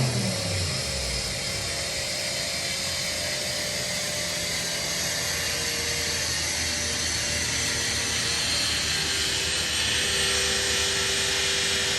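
Mercedes-AMG C63's twin-turbo V8 coming off a full-throttle dyno pull, its revs falling away in the first second, then a steady whirring hiss of the dyno cell's spinning machinery and fans.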